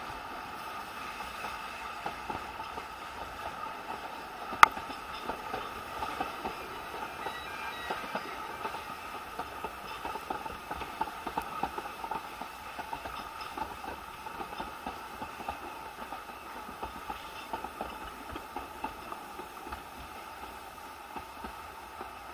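Isle of Man Steam Railway narrow-gauge train running: a steady rattle of wheels and carriage with many small irregular clicks, and one sharp knock about four and a half seconds in.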